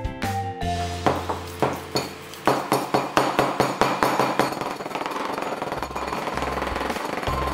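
Cleaver chopping raw mackerel meat on a cutting board, mincing it with rapid, regular chops, several a second, over background music.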